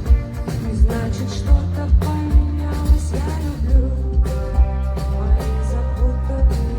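Live rock band playing: a steady kick drum on each beat, about one and a half a second, over a continuous bass line and higher pitched instruments.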